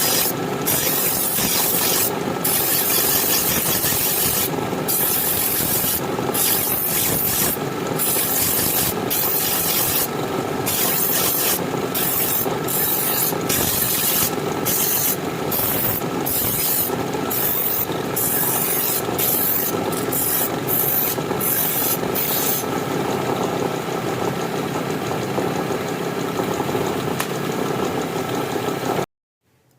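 Continuous abrasive rubbing and rasping of work on the knife, with faint steady tones underneath; it cuts off suddenly near the end.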